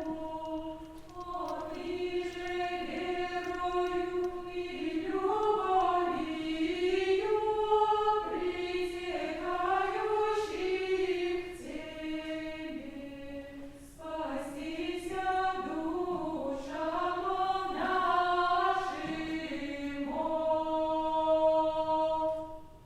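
Unaccompanied choir singing Old Russian chant-like vocal music, the voices moving together in harmony and closing on a held chord that stops near the end.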